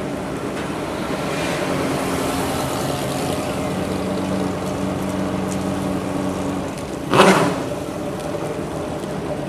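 Car engine idling with a steady low hum as the car rolls slowly past. About seven seconds in comes a brief loud burst of noise.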